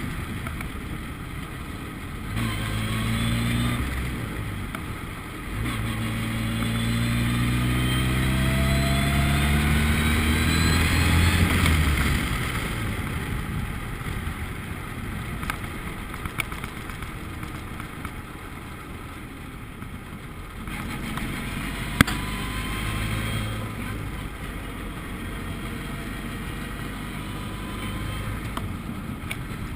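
Formula Ford race car engine accelerating hard, its pitch rising steadily for several seconds, then backing off to a lower drone under wind and road noise. A single sharp click about twenty seconds in.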